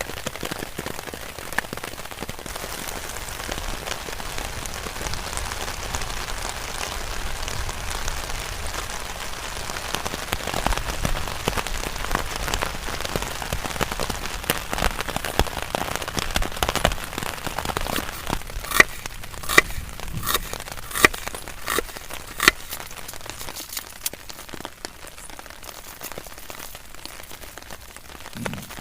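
Steady rain falling, with a quick series of sharp taps about two-thirds of the way through; the rain eases somewhat near the end.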